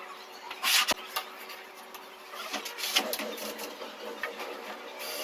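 Workshop tool noises: a short, loud hiss-like burst about a second in that ends in a sharp click, another sharp crack about three seconds in, and irregular mechanical clatter in between.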